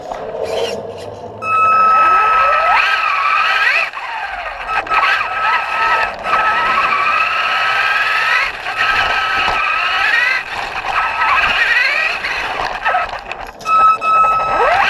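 Traxxas RC truck's motor whining, its pitch sweeping up and down over and over as the truck speeds up and slows, with a steady high tone that keeps cutting in and out.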